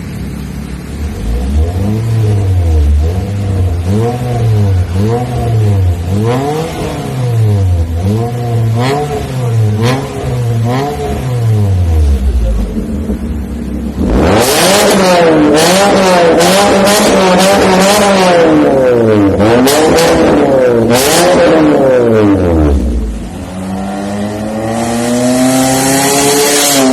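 Toyota Yaris TRD Sportivo's 1.5-litre four-cylinder revved repeatedly through a full-system valvetronic racing exhaust. It blips quickly about once a second, then turns much louder about halfway through, crackling over several more revs, and ends on one long climbing rev.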